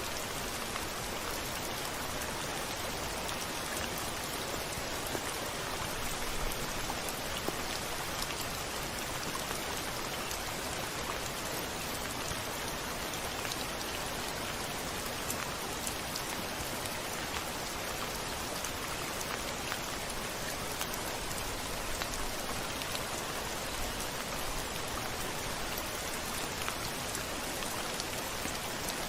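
Steady rain falling on a window: an even hiss of rain with many small drop ticks scattered through it. No thunder is heard here.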